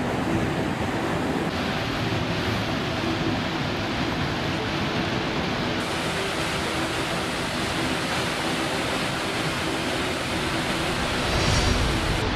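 Flash-flood water rushing steadily, briefly louder near the end.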